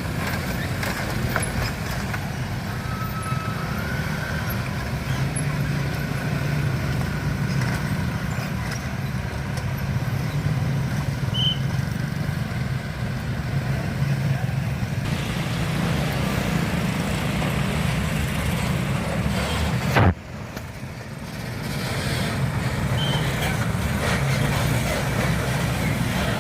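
Road traffic: heavy diesel engines of trucks and other vehicles running steadily with a low hum. About twenty seconds in there is a sharp click and the sound drops for a moment before the traffic noise returns.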